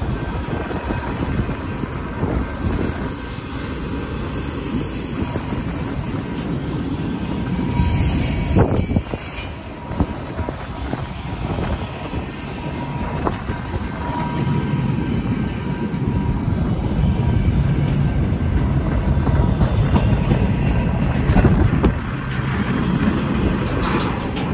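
Freight train cars rolling past close by: a steady rumble of steel wheels on rail, with a high-pitched wheel squeal mostly in the first several seconds and again briefly about a third of the way in. Autorack cars give way to double-stack intermodal container well cars.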